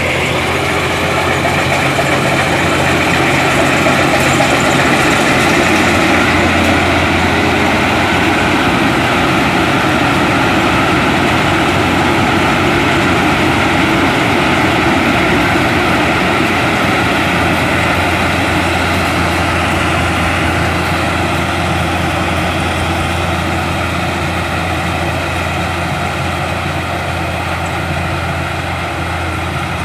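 A large engine running steadily at an even speed.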